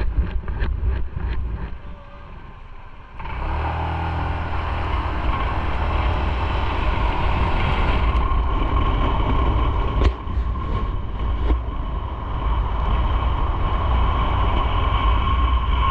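Motorcycle engine running under way with wind rushing over the bike. The first few seconds are quieter with a few sharp ticks, then about three seconds in the engine pulls harder and the rush of wind and road grows and stays loud, with a steady whine.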